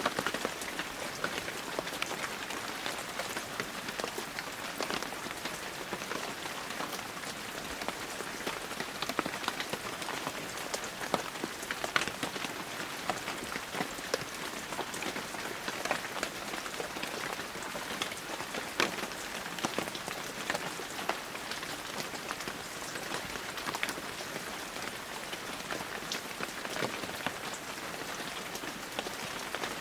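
Heavy rain falling steadily: a constant hiss with many separate drops striking close by as sharp ticks.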